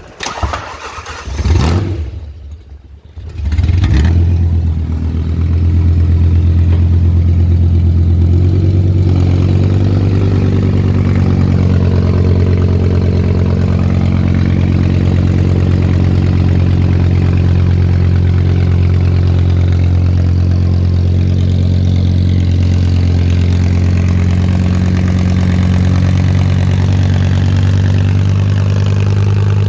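BMW S85 5.0-litre V10 engine running on a bench stand: a few short bursts of cranking, then it catches about four seconds in and settles into a steady idle.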